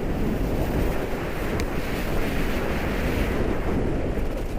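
Steady rush of wind over a downhill ski racer's helmet and microphone at racing speed in a tuck, with a faint click about a second and a half in.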